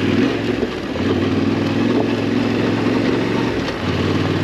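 Yamaha Ténéré 700's parallel-twin engine running steadily under way, its note dipping briefly about a second in and again near the end.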